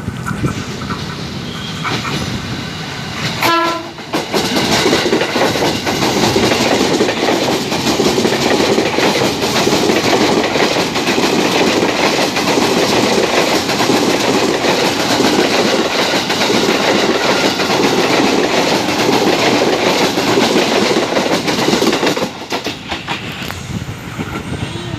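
A train passing close by at speed for about eighteen seconds, its wheels clattering over the rail joints, then suddenly gone. Just before it arrives, a short horn blast sounds about three seconds in.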